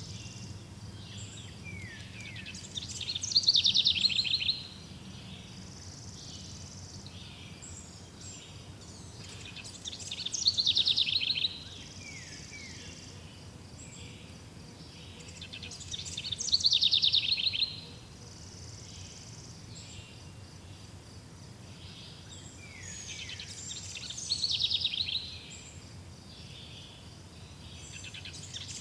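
A songbird repeating the same short, high-pitched phrase about every six to seven seconds, four times. Each phrase is a quick rapid trill lasting about a second and a half, over a faint steady background of outdoor ambience.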